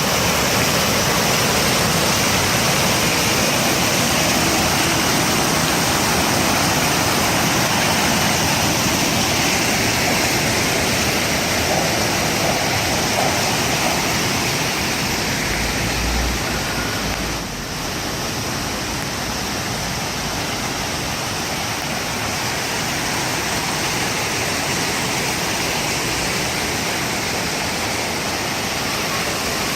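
Water fountains running, a steady rushing splash of falling water like white noise; the level drops a little about halfway through.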